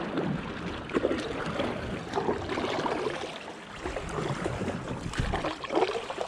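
Kayak paddle strokes dipping and pulling through the water, with irregular splashing and dripping.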